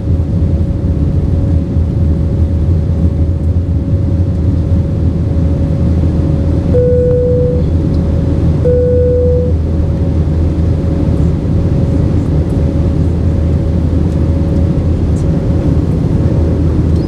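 Airbus A320-232 cabin noise in flight: a steady drone from its IAE V2500 engines and the airflow, with a constant hum. About seven and nine seconds in, the cabin chime sounds twice as two short, identical tones.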